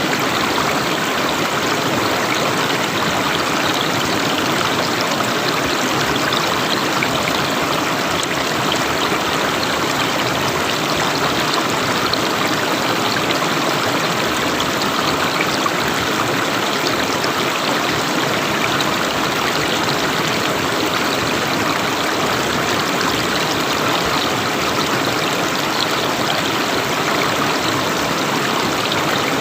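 River water flowing and splashing steadily, an even rushing sound with no change in level.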